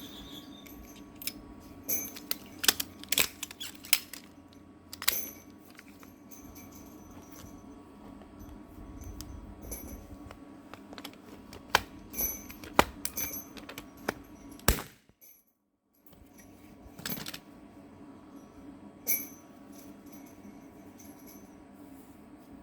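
Walte PT450 nail gun being fired at river rocks and handled: irregular sharp metallic snaps and clinks, a few much louder than the rest, over a steady low hum.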